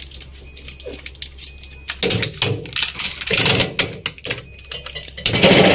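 Sellotape being pulled and peeled off a new refrigerator's plastic fittings. It comes as a run of crackling rips and clicks, loudest about two, three and five seconds in.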